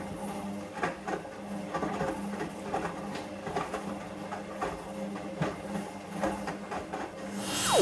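Hoover Vision Dynamic washing machine running through its wash: a steady motor hum under irregular clicks and knocks from the turning drum. Near the end it gets louder and the motor's whine falls steeply in pitch as it slows.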